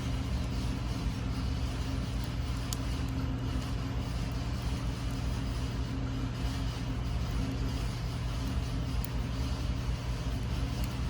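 Steady, unchanging low mechanical hum over a faint hiss, with one faint click a little under three seconds in.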